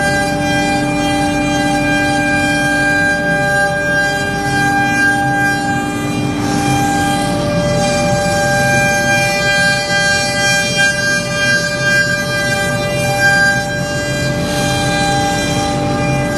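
CNC router spindle running as it carves an MDF sheet: a steady whine made of several fixed tones over a rough cutting noise.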